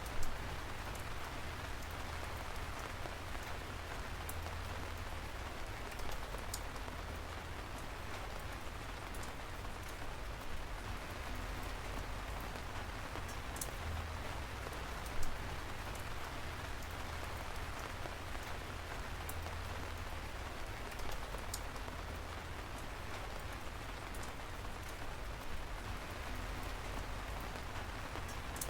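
Steady rain falling, an even hiss with scattered sharp drop ticks, a few louder single drops standing out, about the start and halfway through. A low rumble runs underneath.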